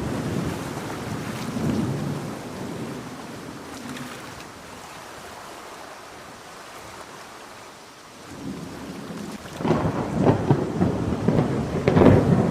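Steady rain with thunder. A rolling rumble fades away over the first few seconds, leaving rain hiss, then a second, louder peal with crackling builds from about 8.5 s and is loudest near the end.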